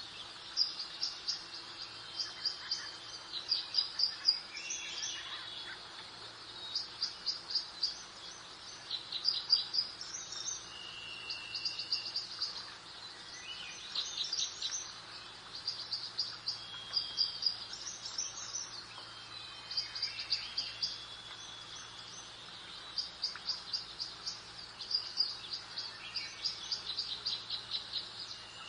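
Songbirds singing in a garden: phrases of rapid, high, repeated chirps every second or two, with a few short whistled notes between them, over a soft steady hiss of breeze.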